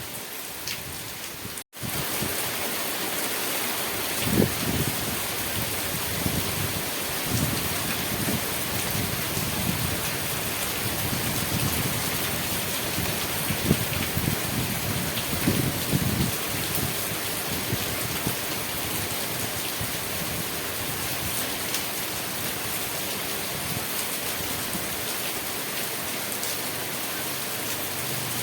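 Steady heavy rain falling and splashing on surfaces, with a few short low thuds among it. The sound cuts out for an instant about two seconds in.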